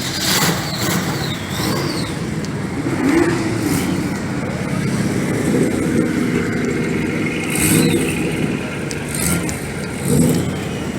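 A car engine running, with its pitch rising and falling a few times, over steady outdoor background noise.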